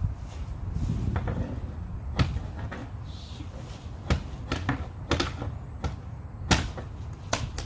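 Irregular sharp knocks and clicks of hard objects being handled, loudest about six and a half seconds in, over a low steady rumble.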